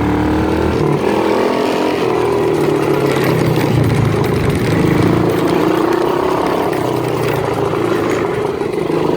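Small quad bike engine running while being ridden, its pitch rising and falling with the throttle.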